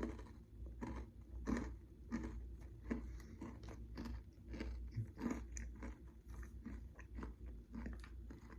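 A person chewing an oats-and-honey granola bar, with a short crunch roughly every two-thirds of a second.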